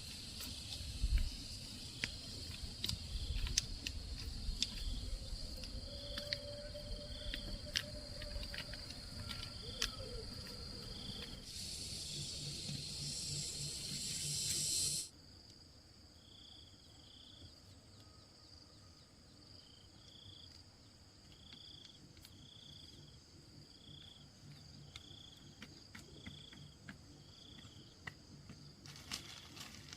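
Insects chirring in a steady high drone, with a short call repeating about once a second. Scattered clicks and low knocks come through the first half, and a louder hiss builds for a few seconds before the sound cuts off abruptly about halfway. After that the insects carry on more quietly.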